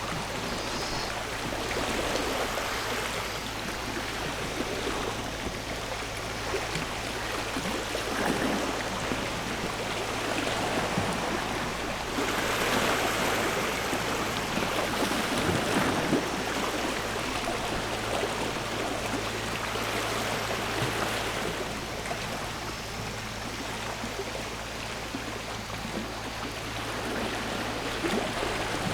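Sea waves washing onto the shore: a continuous rush of water that swells and ebbs every few seconds, fullest around the middle, over a steady low hum.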